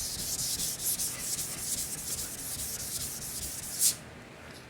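400-grit wet sandpaper rubbed by hand over rattle-can primer on a car body panel, in fast back-and-forth strokes. The strokes stop with one louder stroke a little before the end.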